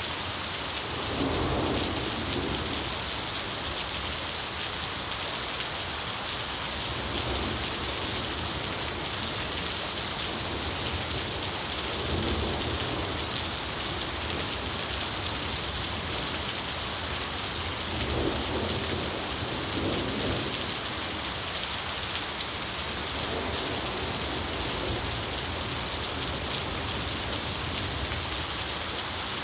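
Steady rain pouring, a continuous hiss, with low rumbles of thunder swelling and fading every few seconds.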